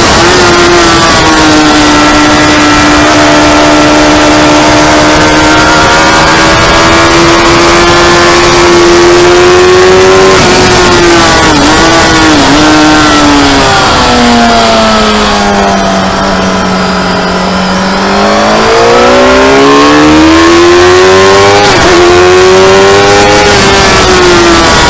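Motorcycle engine at high revs on track: it holds a high, steady note, dips briefly twice for quick gear changes, then the revs drop and stay low for a few seconds before climbing again as it accelerates, with one more shift near the end.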